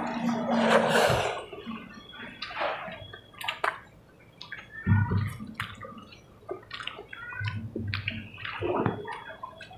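Close-up eating sounds: wet chewing and lip-smacking of two people eating chicken and rice by hand, a run of short moist clicks and smacks.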